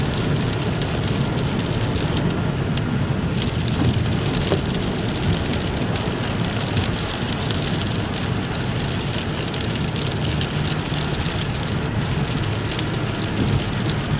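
Rain striking a moving car in many small ticks, over a steady low rumble of road noise.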